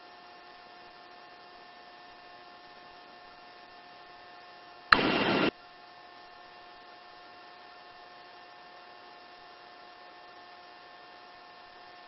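Steady electrical hum and hiss of a helicopter's intercom audio feed, with a sharp click and a loud half-second burst of static about five seconds in, like a radio transmission keyed and dropped.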